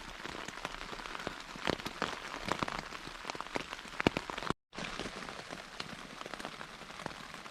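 Heavy rain falling on a Lanshan 1 Plus tent, heard from inside: a steady hiss scattered with many sharp hits of single drops on the fabric. The sound cuts out for a moment just past halfway.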